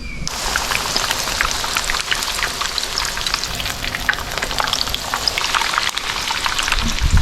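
Cod fritters frying in hot oil in a pan: a steady sizzle full of small crackles and pops.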